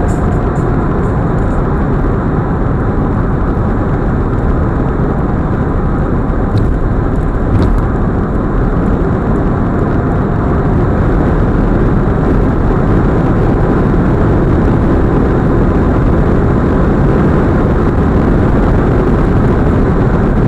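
Steady tyre and wind noise inside an Audi A4 45 TFSI quattro cruising at high highway speed.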